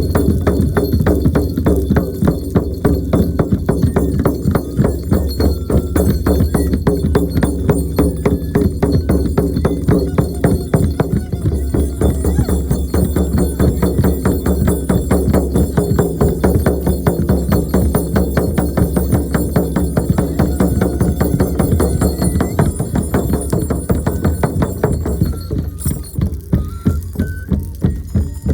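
Shaman's frame drum beaten in a rapid, even galloping rhythm, with a steady low drone under the beats.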